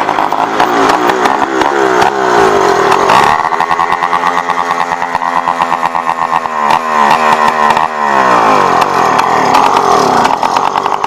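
Motorized bicycle's small two-stroke kit engine running, its pitch dropping and rising several times as the revs change, holding steady for about three seconds midway.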